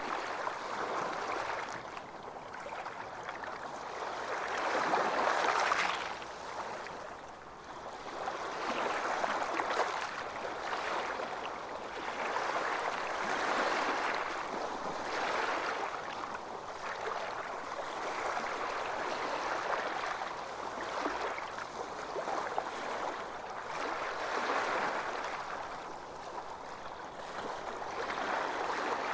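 Ocean waves washing onto a beach, a continuous surf hiss that swells and eases every few seconds.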